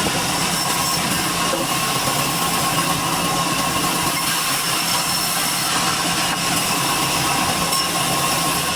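Sawmill machinery running steadily, a loud even noise with a steady whine through it.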